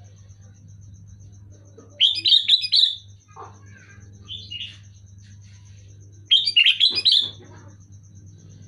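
Sooty-headed bulbul calling: two loud bursts of quick, bubbly chirping phrases about four seconds apart, with a softer phrase between them, over a steady low hum.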